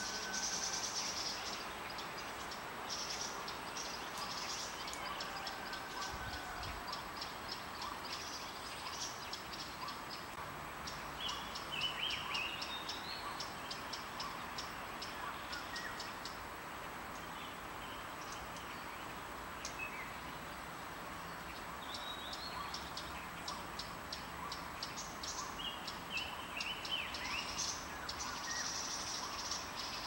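Small songbirds calling: short chirpy phrases come a few times, over rapid high ticking notes and a steady background hiss.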